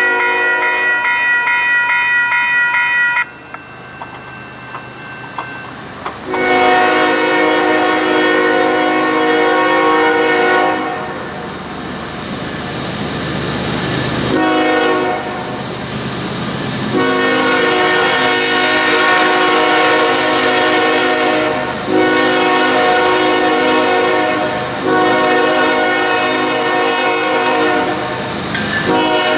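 Railroad locomotive's multi-chime air horn blowing a series of long blasts, each a steady chord, with short breaks between them and the rumble of the moving train filling the gaps.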